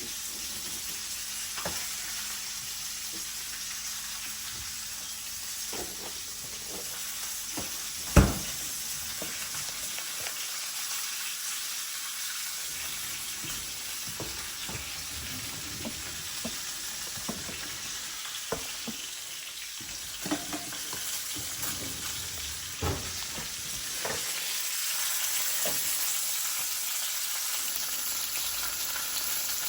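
Food sizzling as it fries in a skillet, a steady hiss with scattered light clicks and taps, and one sharp knock about eight seconds in.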